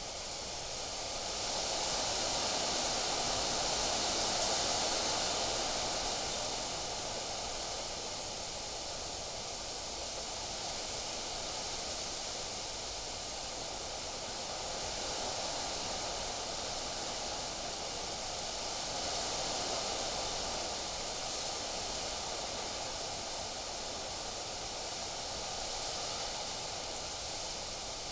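Wind gusting through trees, a steady rushing rustle of leaves that swells and eases in slow gusts, the strongest a few seconds in.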